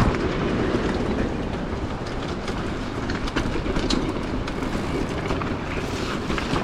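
Mountain bike rolling over a rough, rocky trail: tyres crunching on stones and the bike rattling with a steady run of irregular clicks and knocks, with wind on the microphone.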